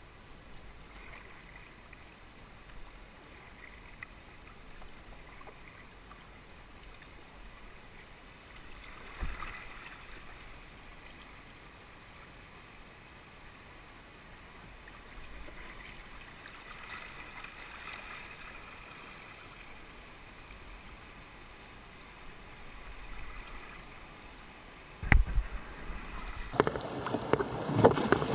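Steady rush of river rapids, with a sharp knock about three seconds before the end. After the knock come louder splashing water and wind on the microphone as a kayak heads into the rapids.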